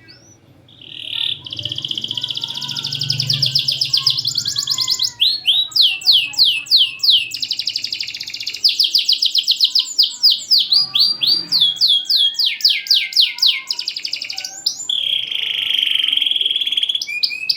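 Domestic canary singing a long, loud song with short gaps: fast high trills, runs of falling sweeping notes and a held buzzy note near the end.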